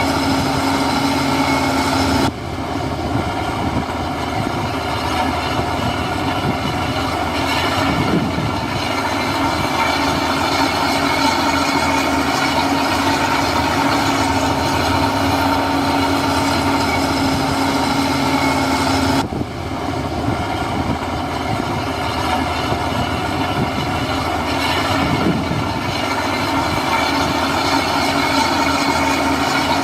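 Heavy diesel engine of earthmoving machinery running steadily with a constant hum. The sound changes abruptly twice, a couple of seconds in and again past the middle.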